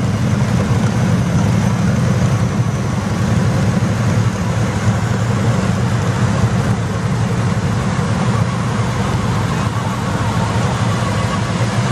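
Garden tractor engine running steadily at an even pitch.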